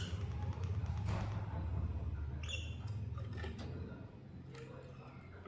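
Lovebird giving a short, high-pitched chirp about two and a half seconds in, among faint scattered clicks and a low hum that fades away.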